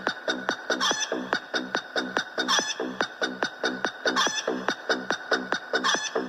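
Chicken clucking in a funny novelty song: short clucks, each dropping in pitch, in a very even beat of about three and a half a second, with a higher squawk about every second and a half.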